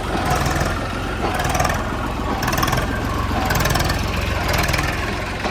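A heavy diesel engine running steadily with a regular low chug, typical of the backhoe or tractor working in the mud.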